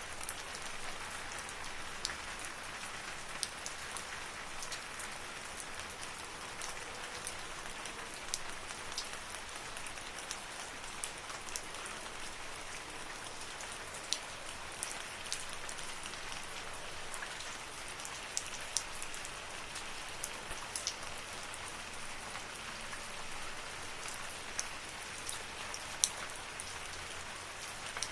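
Steady rain falling in a forest: an even hiss of rainfall with frequent sharp, separate drips and drop impacts scattered throughout.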